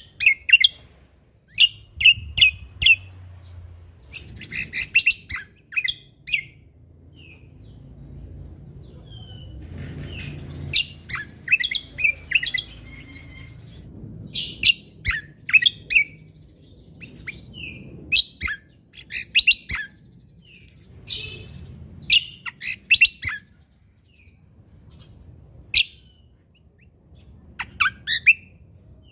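Cucak kombo songbird singing in quick bursts of sharp, high, falling notes, each burst a string of rapid chips separated by short pauses, with a few softer single notes between them.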